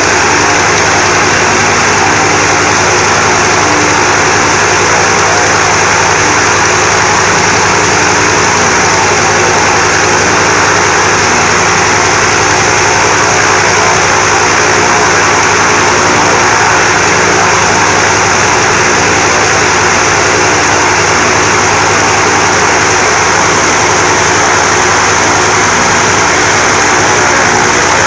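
An An-2's ASh-62IR nine-cylinder radial engine and propeller running loud and steady on a ground run-up after long standing idle.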